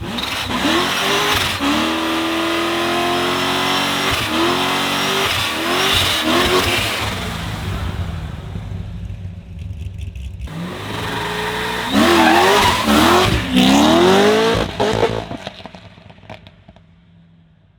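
A car engine accelerating hard through several quick gear changes, twice: the pitch climbs, drops at each shift and climbs again. The second run is the loudest and fades away near the end.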